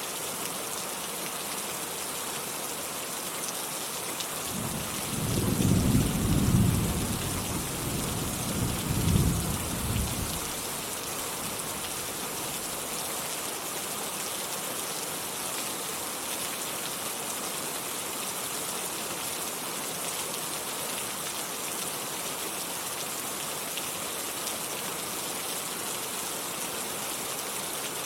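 Steady rain falling, with a roll of thunder from about five seconds in that rumbles for some six seconds, peaking twice, then fades back to rain alone.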